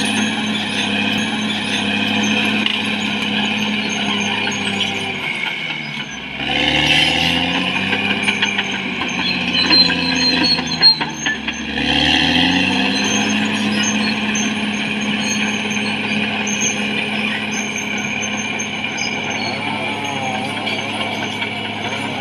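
Caterpillar D6R XL bulldozer's diesel engine running steadily under mechanical clatter. Between about six and twelve seconds in, the engine note drops low and climbs back twice.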